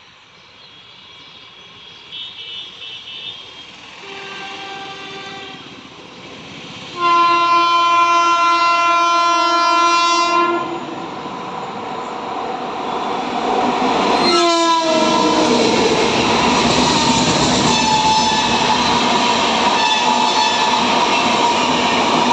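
Indian Railways train horn sounding twice: a shorter blast about four seconds in, then a loud, long blast of about three and a half seconds. The noise of the passing train then builds steadily: wheels rumbling and clattering on the rails, with a brief falling tone about fourteen seconds in.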